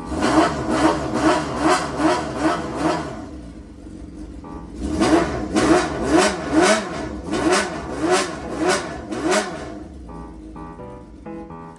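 Honda Jade 250's inline-four engine revved in quick repeated throttle blips: a run of about seven, a short pause, then about nine more, each rising and falling in pitch. This rhythmic blipping is the 'call' style of revving.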